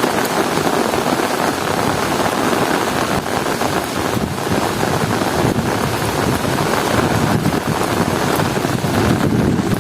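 Heavy rain pouring steadily in strong wind, a dense even rush.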